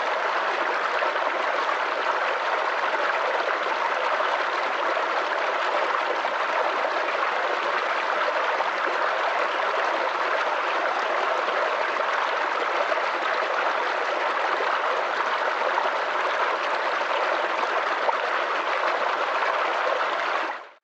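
Steady rush of flowing water, like a stream running over rocks, even and unbroken, fading out right at the end.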